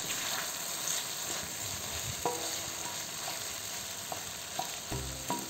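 Egg and stir-fried vegetables frying in a stainless steel wok: a steady sizzle, with a wooden spatula stirring and a few light taps of it against the metal.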